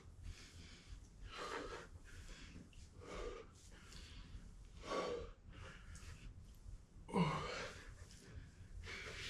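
A person breathing hard with exertion during a set of Bulgarian split squats, one heavy breath about every two seconds in time with the reps. The loudest breath, about seven seconds in, is voiced.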